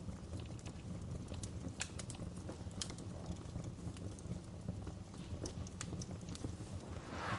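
Wood fire crackling in a fireplace: irregular sharp pops and snaps over a low steady rumble of the flames, with a short hissing flare just before the end.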